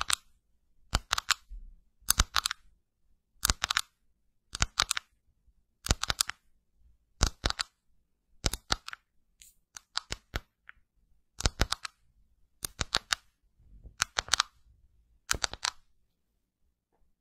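Short clusters of two to four sharp clicks, repeating at an even pace of roughly one cluster every second and a quarter, about thirteen times.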